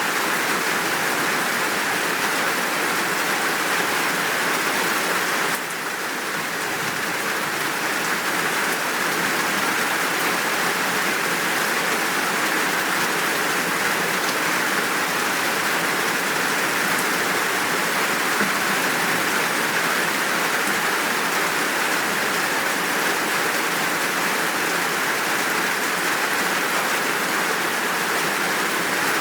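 Steady, full downpour of rain, an even hiss of drops with no thunder, dipping slightly in level for a moment about six seconds in.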